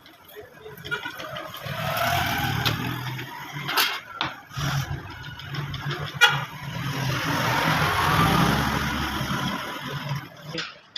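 Engine or motor noise that swells and fades twice, each time over a few seconds, with a rising hum and a few sharp knocks in between.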